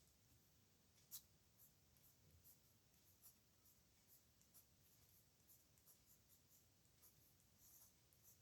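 Pen nib scratching on paper in short strokes, two or three a second, as characters are handwritten, with one sharper scratch about a second in. The sound is faint.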